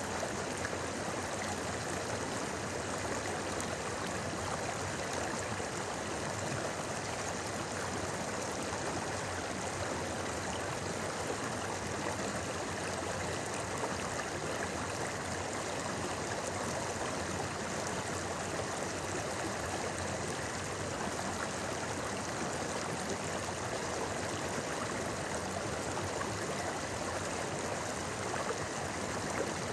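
Shallow river babbling: a steady, even rush of flowing water with no breaks.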